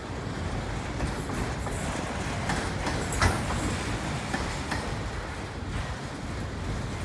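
Autorack freight cars rolling past: a steady rumble of steel wheels on rail, with scattered clicks and one sharp clank a little over three seconds in.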